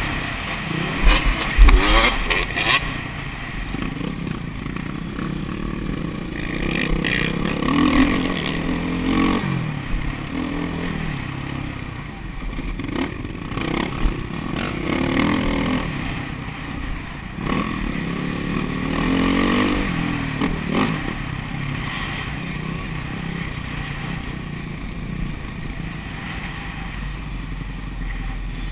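Motocross dirt bike engines revving up and falling back several times, with a few loud knocks about a second or two in.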